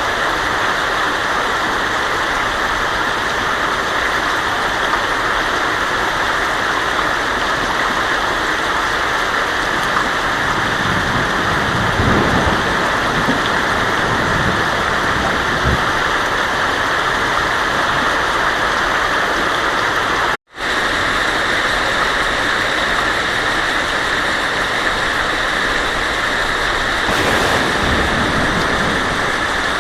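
Heavy rain drumming on a tin roof in a steady dense hiss, with low thunder rumbles in the middle and again near the end. The sound cuts out for an instant about two-thirds of the way through.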